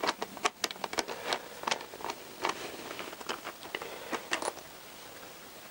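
Screwdriver and small screw clicking and tapping against a motorcycle battery terminal and its retaining nut as the screw is worked into place: many sharp, irregular clicks, dying away in the last second or so.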